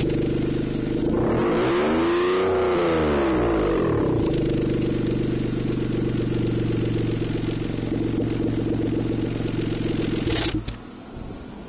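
Daihatsu Esse's three-cylinder engine through an aftermarket exhaust (Accel Call front pipe and Ellipse W rear piece on the stock catalyst, with flange silencers fitted): very loud. It is blipped once, the note rising and falling, then idles steadily. Near the end it cuts off with a sharp click.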